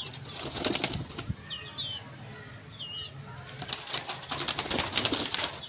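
Parrots flapping their wings in two bursts, with a few short chirps in between.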